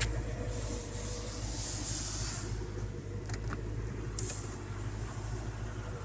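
Car engine idling: a steady low hum, with a brief hiss early on and a few light clicks.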